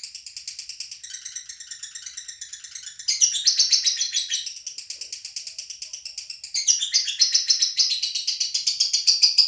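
Lovebird chattering in a fast, unbroken run of high chirps, about seven a second, growing louder about three seconds in and again near seven seconds.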